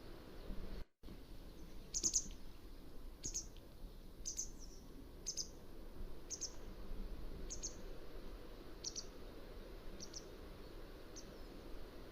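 Mountain wagtail calling: a series of nine short, high-pitched calls about one a second, growing fainter toward the end, over a steady low background rumble. A brief dropout in the sound comes just before the calls begin.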